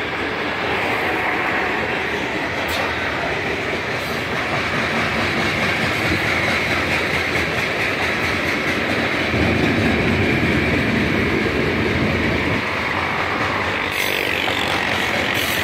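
Freight train of covered hopper cars rolling past, a steady rumble and clatter of steel wheels on the rails, growing louder and deeper for a few seconds from about nine seconds in.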